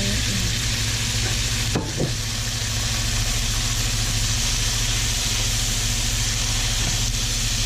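Pieces of braised pork leg and a splash of broth sizzling in a hot pan as they are stirred, a steady hiss over a low steady hum, with a short knock about two seconds in.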